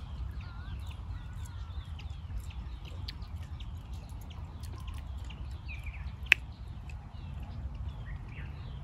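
Birds chirping and calling over a steady low rumble, with one sharp click a little past six seconds in.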